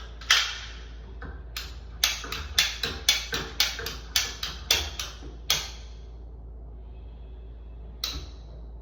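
Klein ratcheting PEX tubing cutter clicking as its handle is squeezed over and over, ratcheting the blade down through PEX pipe: about fifteen sharp clicks over the first five seconds, a pause, then one more click near the end.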